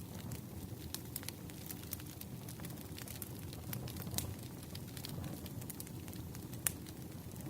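Campfire crackling, with a steady low rush of burning under a scatter of sharp wood pops, one louder pop near the end.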